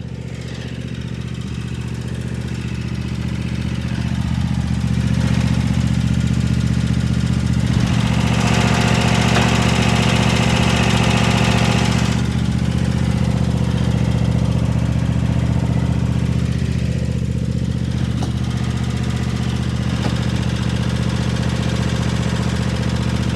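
Lawn mower engine running steadily under load while mowing, with a louder rushing hiss from about eight to twelve seconds in.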